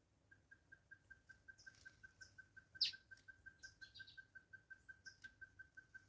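Wild birds calling: one bird repeats a quick, even series of identical single-pitched notes, about five a second. Other small birds add short high chirps, with one loud sharp chirp about halfway through.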